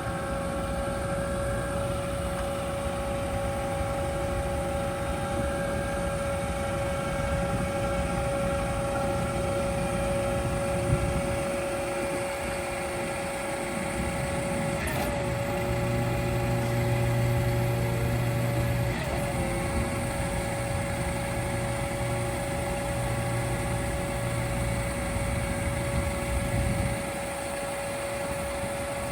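Isuzu tow truck's engine running with the hydraulics working the bed: a steady high whine over a low engine rumble that dips and swells a few times as the load changes.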